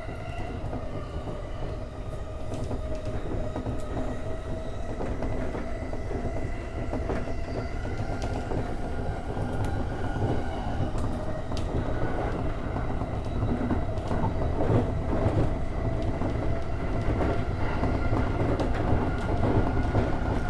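E231 series electric commuter train running at speed, heard from inside the car: a steady motor hum with several held tones over a low rumble, and wheels clicking over rail joints, growing louder and busier in the second half.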